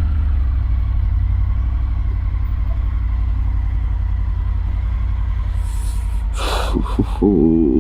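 Triumph Tiger 900's three-cylinder engine running steadily at low speed. About six seconds in there is a short hiss, then a brief wavering higher tone near the end.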